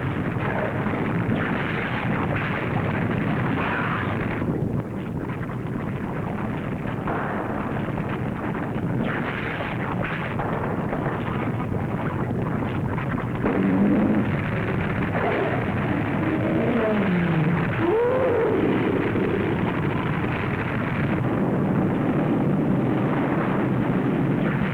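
Film sound effect of a volcanic eruption: a continuous rumbling, crackling roar with no break. A few wavering, sliding tones rise over it about halfway through.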